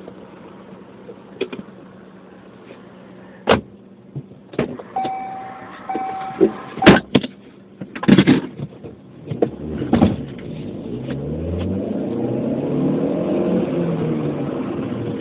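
Car road noise through a dashcam microphone: a car horn sounds twice, then a cluster of sharp bangs, the loudest about eight seconds in, typical of a collision. After that an engine revs up, its pitch rising steadily.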